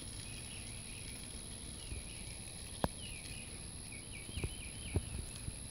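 Outdoor summer ambience: a bird singing short phrases of quick down-slurred notes, over a steady very high whine and a low wind rumble. A few light clicks come near the middle and toward the end.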